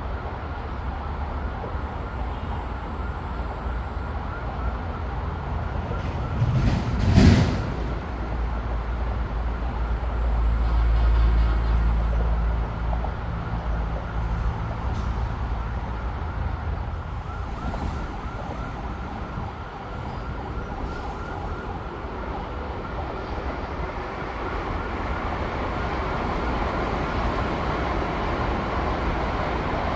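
Steady vehicle noise with a faint wavering siren through it; a short loud knock about seven seconds in, and a low rumble swelling briefly a few seconds later.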